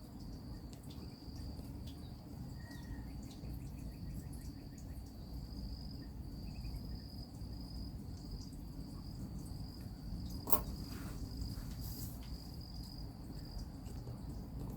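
Steady high-pitched trilling of insects, unbroken throughout, with a sharp click about ten and a half seconds in.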